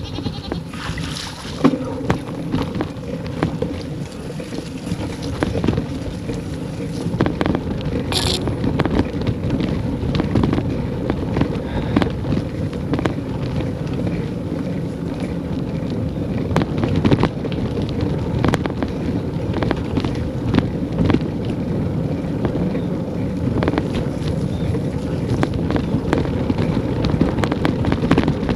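Wind rumbling steadily on the microphone of a camera on a moving bicycle, with many small clicks and knocks scattered through it.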